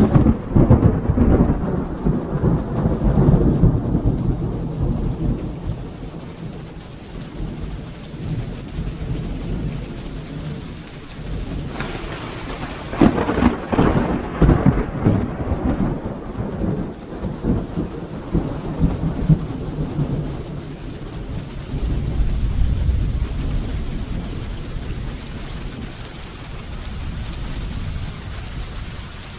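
Steady rain with thunder. A sudden loud thunderclap at the start rumbles away over several seconds. A second crackling peal comes about twelve seconds in and rolls on, and a deep low rumble follows later.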